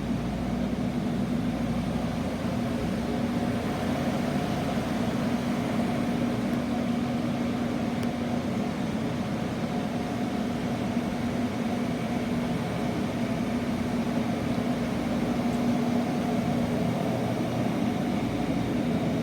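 Water-damage drying equipment, fans and dehumidifiers, running with a steady whir and a constant hum.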